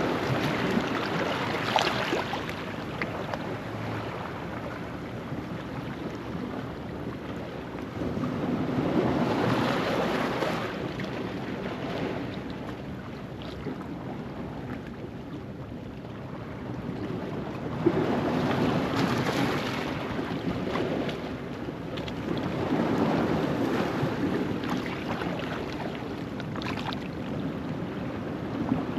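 Ocean waves washing in over a rocky shoreline at low tide, rising and falling in slow surges several seconds apart, with a sharp splash against the rocks about two seconds in and again around eighteen seconds. Light wind rumbles on the microphone.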